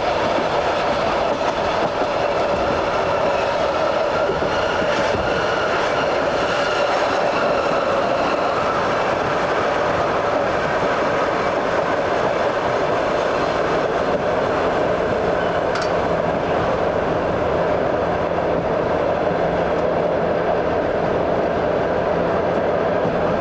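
Passenger train running along the line, heard on board: a steady rolling noise of the wheels on the rails.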